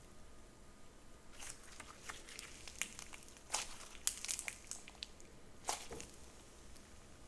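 Slime being squeezed and stretched by hand, giving scattered sharp crackles and pops that start about a second in, come thickest in the middle and thin out near the end.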